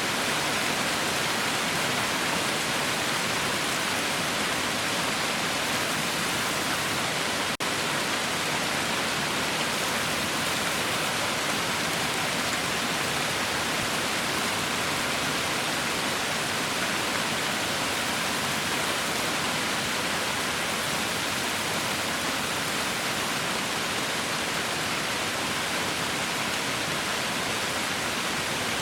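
Heavy rain falling steadily, a dense even hiss, with a split-second dropout about seven and a half seconds in.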